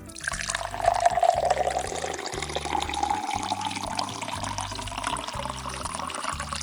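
Water running into a cup, a steady splashing stream whose pitch rises slowly as the cup fills, over a soft children's background tune.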